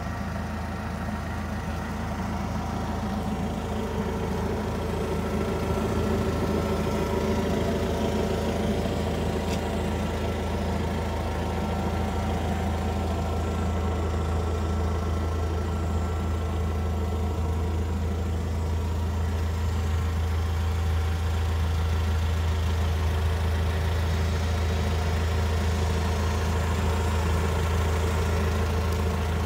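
NVG Master FL25 forklift's engine idling steadily with a deep, even hum.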